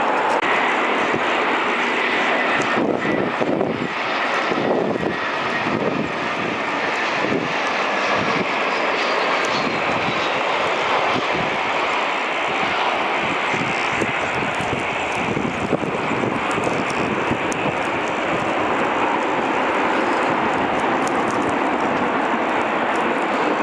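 Jet airliner engines passing close by: a steady, loud rush with a faint whine that slowly falls in pitch.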